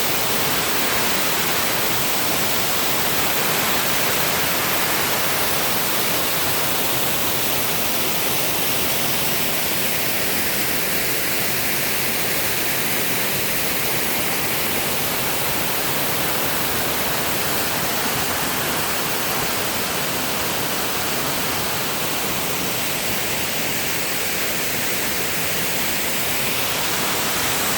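Waterfall: a steady, loud roar of falling water.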